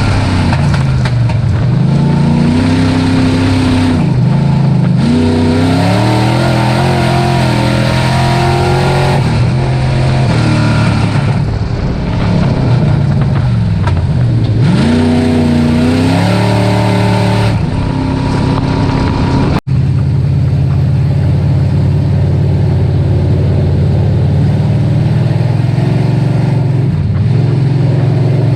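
Dirt-track race truck engine at racing revs under load. Twice its pitch falls away and climbs back, then it holds steady and high. The sound cuts out for an instant about two-thirds of the way through.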